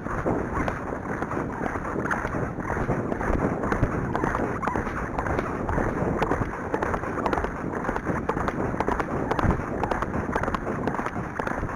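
Wind buffeting the microphone during a fast ride on horseback, with the horse's hoofbeats underneath.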